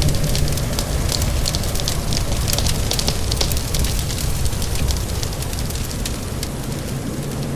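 Fireplace wood fire crackling with many quick pops over a steady low rumble and the hiss of rain. The crackling is busiest in the first few seconds and thins out toward the end.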